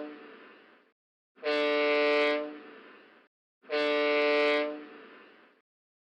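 Ship's horn sounding short blasts of about a second each: the echoing end of one blast, then two more about two seconds apart, each trailing off in an echo. Short blasts like these make up a COLREGs manoeuvring or warning sound signal.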